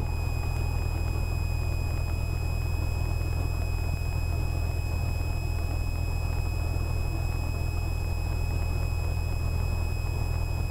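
Cessna 172R's four-cylinder Lycoming engine idling after start, a steady low rumble with no change in speed, under a faint steady high-pitched whine.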